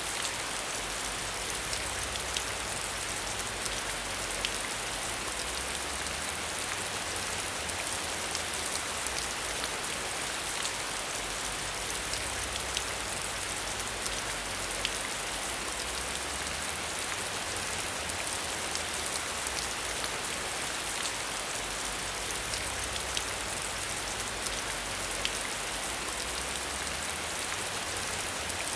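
Steady, even rainfall, with scattered sharp taps of single drops.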